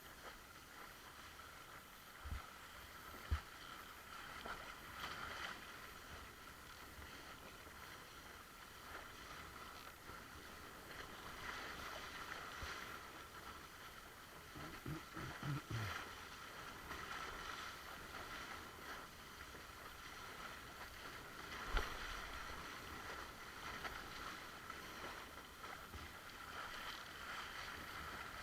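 Water hissing and splashing along a windsurf board as it sails, with a few short low knocks.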